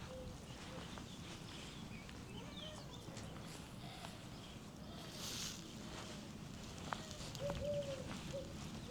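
A dove cooing in short rising-and-falling notes, a run of them near the end, with soft footsteps and a few faint small-bird chirps.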